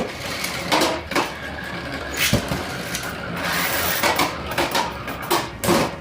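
Beyblade spinning tops whirring and clashing in a plastic stadium: a steady hiss broken by sharp clacks of impact every second or so.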